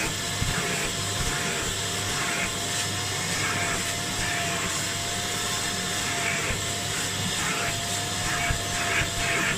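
Kärcher Puzzi 10/1 spray-extraction cleaner running steadily, its suction motor droning with a slightly wavering whine over a constant hiss, with brief louder hissing surges now and then at the nozzle.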